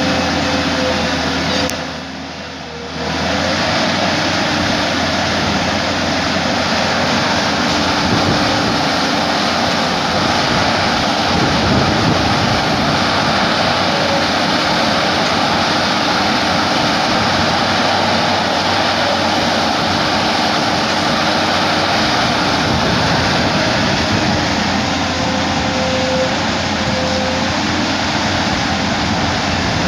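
Tata Hitachi excavator running steadily, a dense engine roar with a faint steady whine over it; the level dips briefly about two seconds in.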